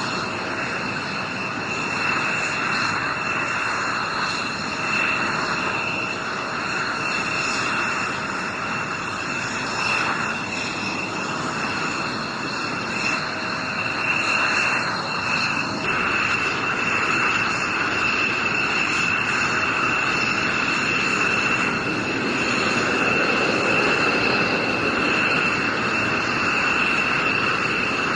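Steady jet aircraft engine noise: a continuous rushing drone with a high, steady whine over it, swelling slightly a few times.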